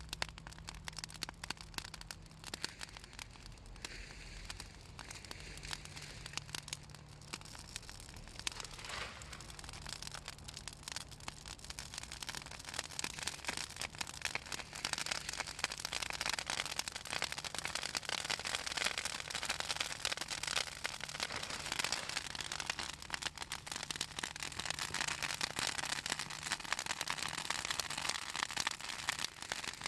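Bonfire of pruned Southern magnolia branches crackling and popping without pause, the oily wood and leaves snapping in dense clicks. The crackling grows denser and louder about halfway through.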